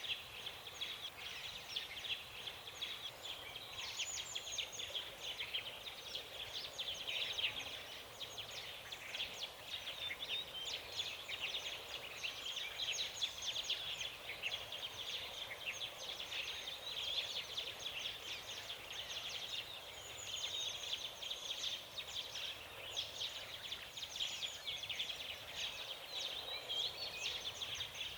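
A dense chorus of many forest birds chirping and calling at once, high-pitched and continuous, with no single song standing out.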